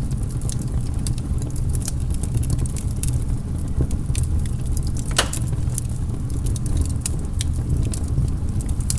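Wood fire crackling in a fireplace: a steady low rumble of flames under frequent irregular sharp crackles, with one louder pop about five seconds in.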